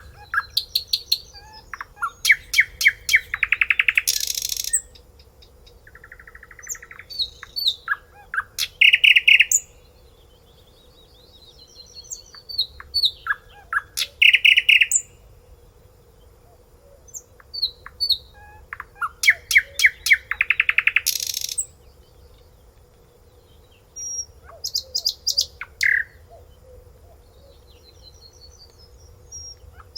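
A songbird singing varied phrases of rapid repeated notes and clear whistles, each phrase a few seconds long, with pauses of a second or two between them.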